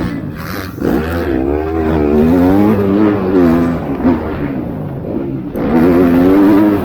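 Motocross race bikes running on the track, their engines revving up and falling back again and again as the throttle is worked.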